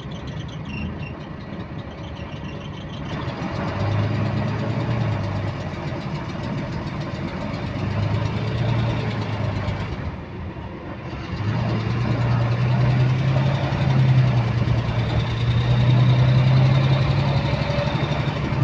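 Diesel bus engine running with a repetitive clicking that keeps time with engine speed. The engine note dips briefly a little past halfway, then comes back stronger and slightly higher as the bus pulls away.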